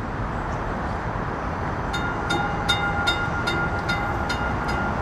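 Perley Thomas streetcar running with a steady low rumble. From about two seconds in, a bell clangs about three times a second.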